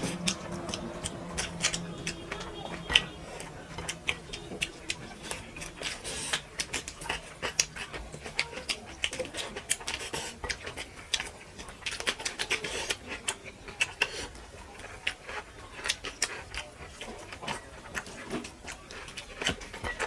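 Close-miked eating sounds: an irregular run of small wet clicks and smacks from chewing and from spicy fish curry mixed with rice.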